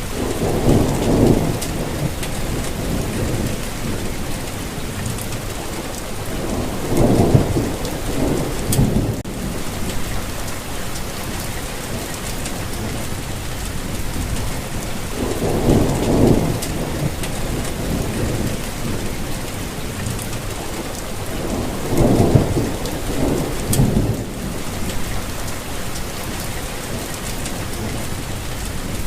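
Steady rain falling, with low rumbles swelling up four times: near the start, about seven seconds in, about halfway and about two-thirds of the way through.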